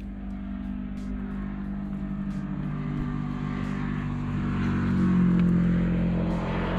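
A motor vehicle engine idling steadily, with a hiss that grows louder through the second half.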